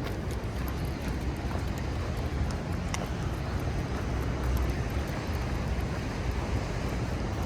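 Wind buffeting the microphone as a steady low rumble, with a few faint ticks scattered through it.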